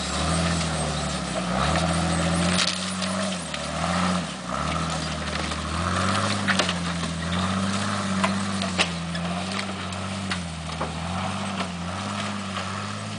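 Built Jeep Cherokee XJ's engine working on an off-road hill climb, its pitch rising and falling again and again as the throttle is worked. Scattered clicks and knocks sound over the engine.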